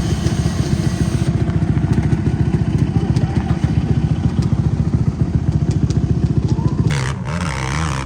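Quad engine idling with a fast, even thump, then its pitch rising and falling near the end as the throttle is worked.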